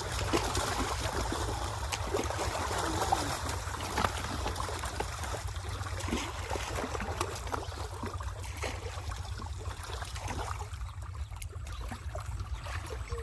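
Water trickling and splashing, with many small irregular splashes and knocks, as fish are handled in shallow pond water.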